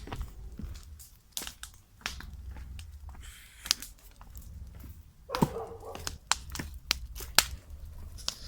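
Rummaging through a pile of old junk: paper and plastic crinkling and tearing, with scattered sharp clicks and knocks of objects being handled. A short scraping squeak comes about five seconds in.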